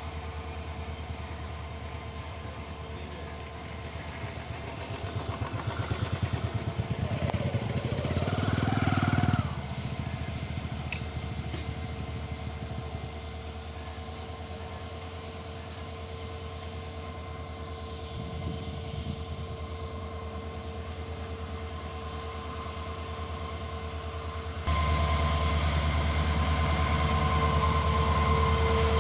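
Arriving train: a steady mechanical drone with a few held tones. It swells a few seconds in and drops off suddenly, then jumps abruptly louder near the end.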